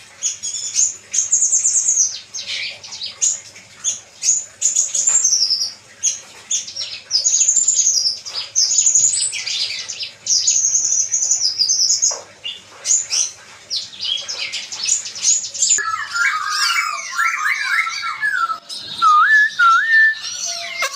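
Songbird singing a rapid, high run of chirps and chattering trills; about three quarters of the way in, a lower run of slurred whistled notes comes in beneath it.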